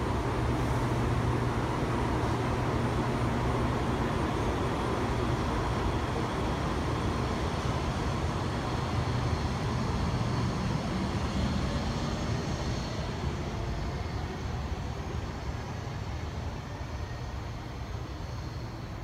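Taiwan High Speed Rail 700T trainset pulling out of the station: a steady rush and rumble with a low hum, growing quieter over the last several seconds as it runs away.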